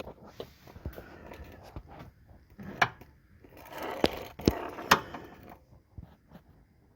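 Handling noise in a car's engine bay: scattered clicks, knocks and scrapes, with a sharp knock a little under three seconds in and three more between about four and five seconds in.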